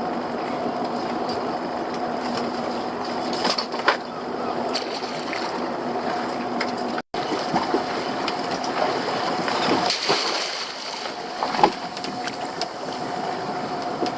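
A small fishing boat's motor runs with a steady hum, with scattered sharp knocks and some water splashing. The sound cuts out completely for an instant about seven seconds in.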